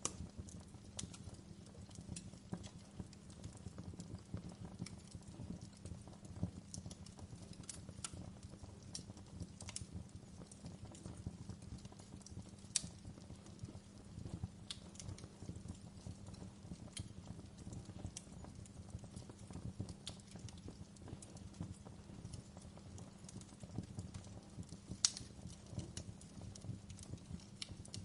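Wood fire burning in a fireplace: a steady low rumble of flame with frequent small crackles and sharper pops from the burning logs. One louder pop comes about halfway through and another near the end.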